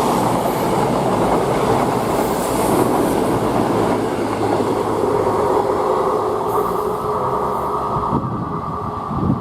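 Diesel train running past on the rails: engine note and wheel noise, loud and steady, with a short low swell near the end.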